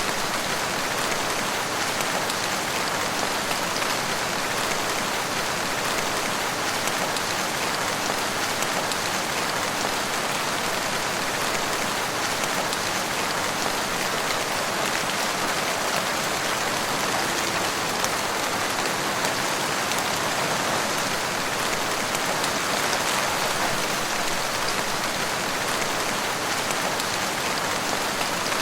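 Steady rain falling on a forest, a dense even hiss with fine scattered drop ticks and no change in intensity.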